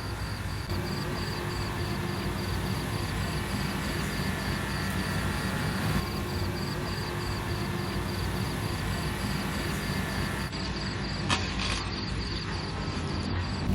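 Steady roadside background of low engine and traffic rumble. Over it runs a regular high-pitched ticking, about four or five times a second, and a couple of short clicks come near the end.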